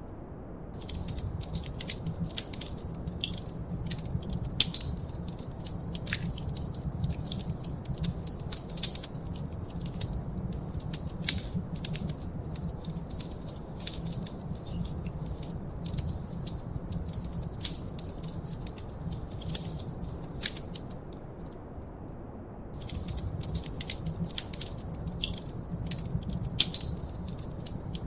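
Fireplace fire crackling, with many irregular sharp pops and snaps over a low steady rumble. The crackling drops out for about a second near the start and again about three-quarters of the way through.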